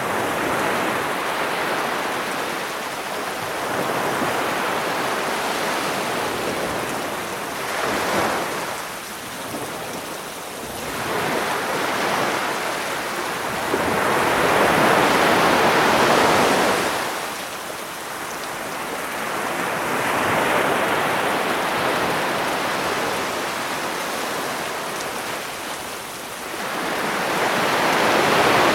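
Sea waves surging onto the shore and washing back, swelling and fading every few seconds in a steady hiss, loudest about halfway through, with a rain track mixed in underneath.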